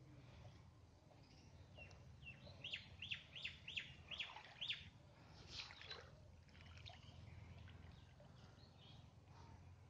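A bird calling faintly: a quick run of about six short downward chirps about three seconds in, then a longer call sweeping down in pitch, over a faint low background rumble.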